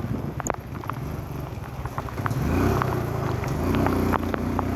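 A small engine running with a low, steady hum that rises in level about two seconds in, with scattered sharp ticks and taps.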